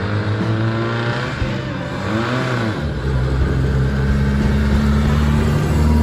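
BMW 1600 GT's four-cylinder engine accelerating as the car drives up, growing louder and passing close by near the end.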